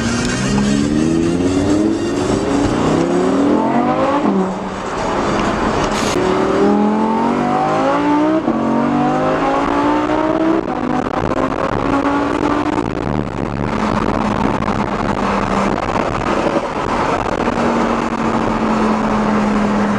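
Audi R8's mid-mounted engine accelerating hard through several gears, its pitch climbing in each gear and dropping back at each upshift. In the second half it settles into a steady cruise.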